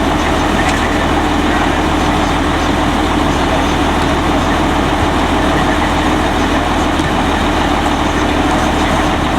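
Autocar front-load garbage truck's engine idling steadily, a constant low hum.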